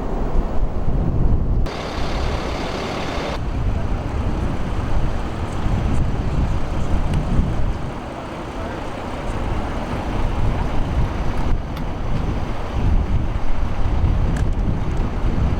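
Steady low rumble of motor vehicle engines, with abrupt shifts in the sound at a few edits.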